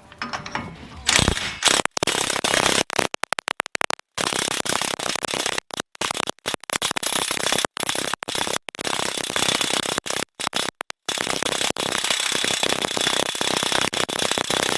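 Impact wrench hammering on a front axle nut torqued to about 300 ft-lb, working to break it loose. Loud. It comes in short bursts with brief stops until about 11 seconds in, then runs without a break.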